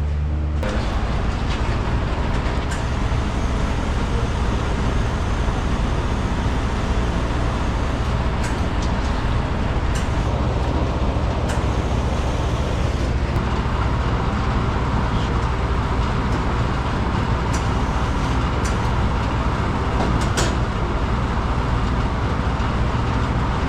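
Steady rush of compressed air with a low machine rumble and scattered small clicks, from a powder coating spray gun coating the sandblasted gudgeons and pintles. About 13 seconds in the sound turns brighter.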